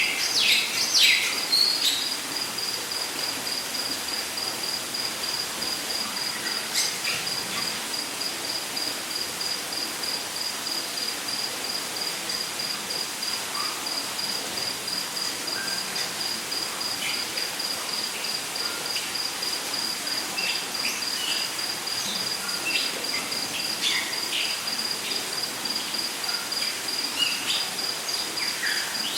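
Rainforest ambience: an insect trills at a steady high pitch with a rapid, even pulse, over a constant background hiss. Birds give short chirps and calls, a burst of louder ones in the first two seconds and more scattered near the end.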